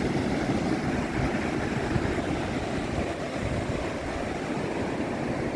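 Sea surf with wind rumbling on the microphone, a steady low noise throughout.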